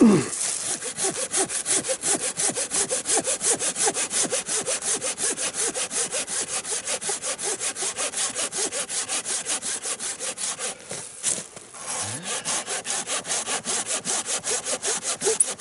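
Hand saw cutting through a dry fallen tree trunk in quick, even strokes, about four a second, with a short pause about eleven seconds in before the strokes start again.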